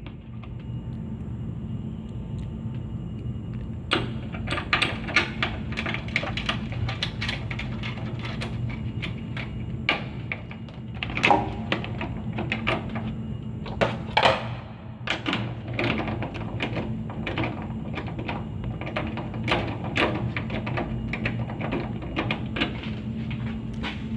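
Irregular clicks, taps and knocks of parts and tools being handled during the hose job, starting about four seconds in and loudest twice near the middle, over a steady low hum.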